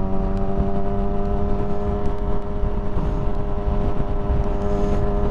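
Motorcycle engine running at a steady pitch while cruising at highway speed, under a constant low rumble of wind and road noise.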